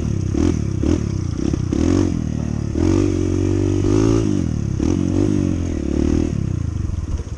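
Honda CT125's single-cylinder four-stroke engine revving up and down, its pitch rising and falling several times as the throttle is opened and closed.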